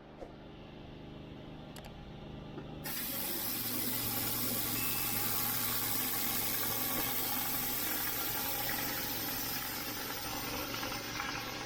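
Petrol pressure washer engine running steadily. About three seconds in, high-pressure water starts spraying from the surface cleaner onto block paving, a loud steady hiss that holds over the engine.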